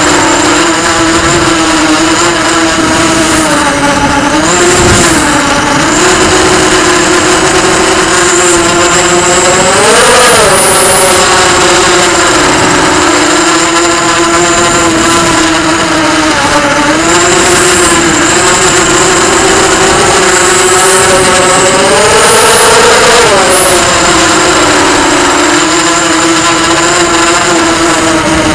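Racing quadcopter's brushless motors and propellers whining loudly and continuously. The pitch swings up and down with the throttle, rising sharply about a third of the way in and again past three quarters.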